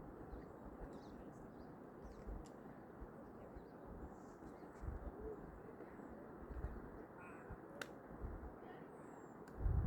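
Steady rushing noise, with scattered low thuds and a few faint high chirps.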